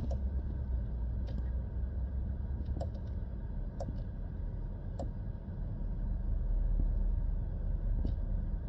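Steady low hum in a car cabin with a few faint, irregular clicks, typical of small controls being handled.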